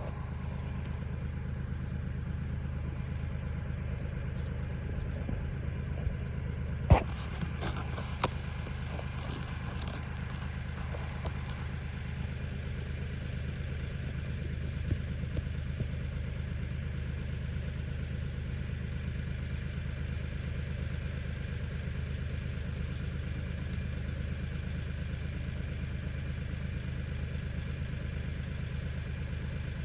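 Kioti 4010 tractor's diesel engine running steadily at an even speed. A sharp knock sounds about seven seconds in, followed by a few lighter clanks over the next few seconds.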